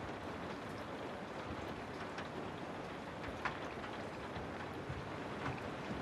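Steady rain falling on a house: an even hiss with a few louder single drops ticking now and then.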